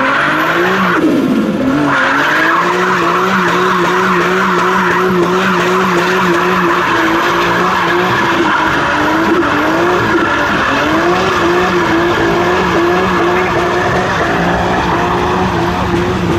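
A car doing a burnout: the engine is held at high revs, holding a steady pitch with small wobbles after a brief dip about a second in, while the spinning rear tyres squeal without a break.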